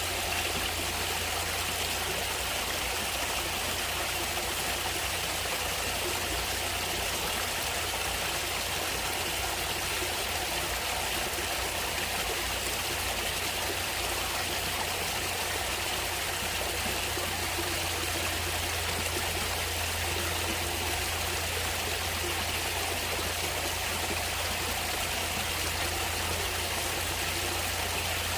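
Natural stream of running water flowing steadily, an even, unbroken rush.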